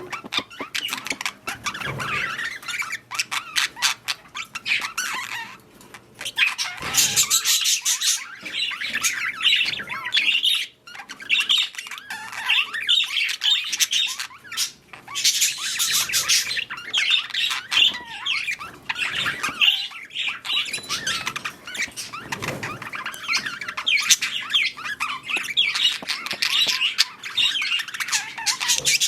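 Budgerigars chattering and warbling continuously, a dense run of quick chirps, squawks and clicks, louder in a couple of stretches.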